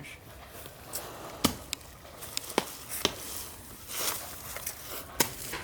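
A digging tool chopping into the ground: a handful of irregular, sharp strikes, with some scraping of soil between them, as a hole is dug for a stake.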